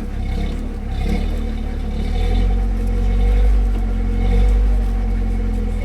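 Off-road 4x4's engine running under load as it crawls over rocks, swelling louder twice in the middle.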